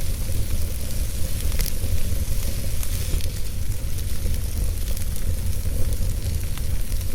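Fire burning in a fireplace: a steady low rumble and hiss of the flames, with a few sharp crackles scattered through.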